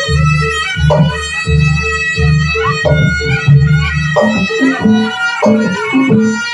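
Live jaranan music: a nasal reed-trumpet (slompret) melody over repeated drum strokes and a steadily repeated gong-like tone.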